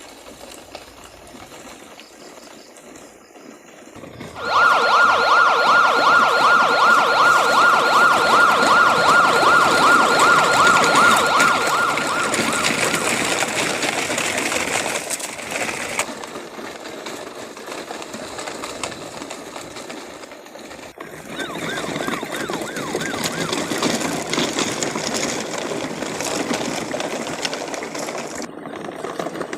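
Toy police car's electronic siren sounding a fast warble, a rapid repeating rise and fall in pitch. It starts loudly about four seconds in and fades out about nine seconds later. A steady rough noise continues beneath it, and the siren returns faintly in the later part.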